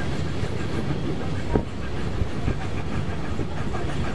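Steam-hauled train running along the track, heard from on board: a steady rumble with a sharp knock about one and a half seconds in and a couple of lighter knocks just after, from the wheels over the rail joints.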